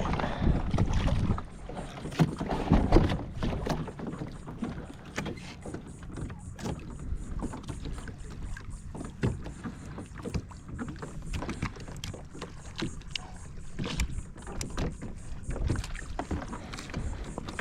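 Water splashing with scattered knocks and clicks from a redfish being fought up to a kayak. The louder splashing comes in the first three seconds, then a steady patter of small clicks over a low rumble.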